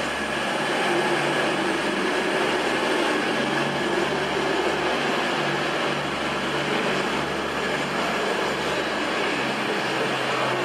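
Virgin Voyager diesel train running steadily past at low speed: a continuous engine hum under broad rumbling noise.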